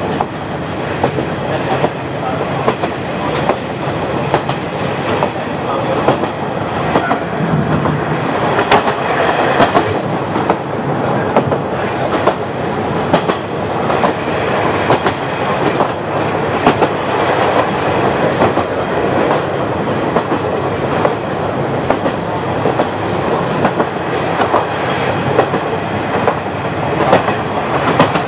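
KiHa 40 diesel railcar running along the line, its wheels clicking repeatedly over rail joints above a steady rumble of running noise.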